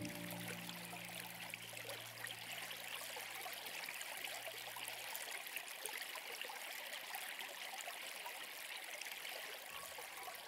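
Steady rush of running water, as from a stream. Low held music notes fade out in the first half.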